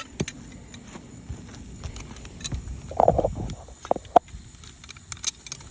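Scattered knocks, clicks and scuffs of hands-on work on an asphalt shingle roof, with a louder clatter about three seconds in and a sharp knock a second later.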